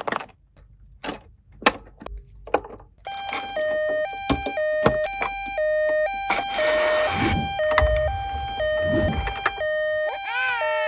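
A few sharp plastic clicks and taps. Then, about three seconds in, a toy ambulance's electronic two-tone siren starts, switching between a high and a low note about every half second, with a brief rustle partway through.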